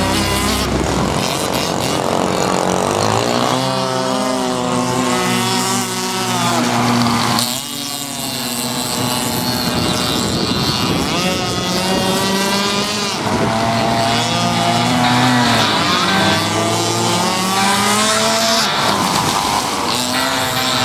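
Small petrol engine of a radio-controlled model boat running at high revs, its pitch rising and falling repeatedly as the throttle is worked.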